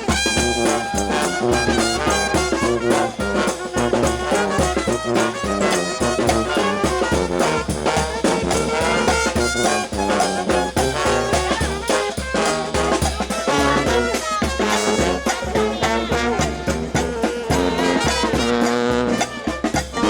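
New Orleans brass band playing second line music: trumpets and trombones over a steady bass drum beat.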